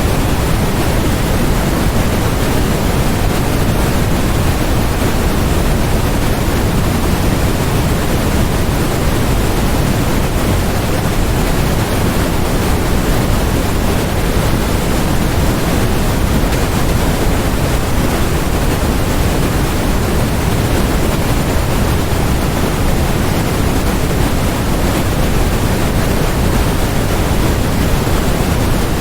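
Steady generated noise from a white-noise track: an even, unchanging hiss with no events in it, fuller in the low end than in the highs.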